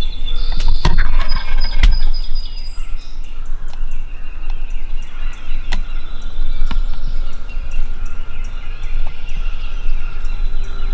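Turkey calling, yelps and gobbling, over a steady low rumble.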